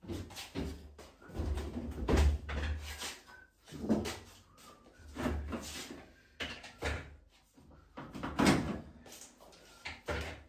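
Irregular knocks and clunks from a washing machine being worked on, about a dozen in ten seconds, the heaviest low thuds about two seconds in and again near the end.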